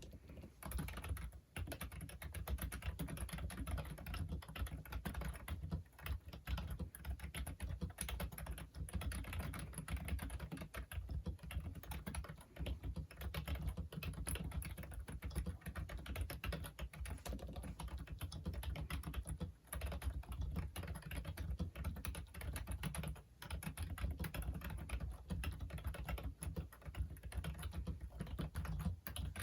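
Typing on a Logitech Wave Keys ergonomic keyboard: a fast, continuous run of key clicks with a few brief pauses.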